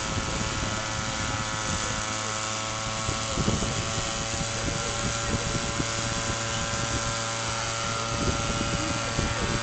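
A motor running steadily, a constant droning hum with no change in pitch.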